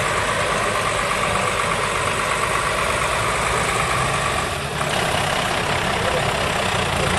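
Mercedes Unimog off-road truck's diesel engine running steadily, with a steady whine over it. The sound changes abruptly about two-thirds of the way through, then goes on as a similar steady engine note.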